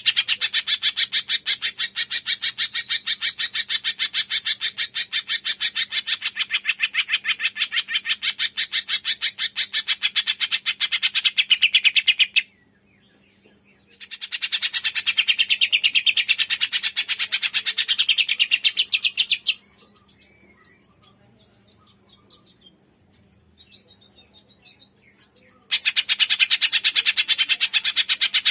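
Cucak ijo (green leafbird) 'tembakan' song: a rapid, machine-gun-like string of sharp high notes that breaks off abruptly a few times. About two-thirds of the way in, the burst gives way to fainter scattered chirps before resuming near the end. This fast, aggressive song is used to provoke idle caged leafbirds into singing.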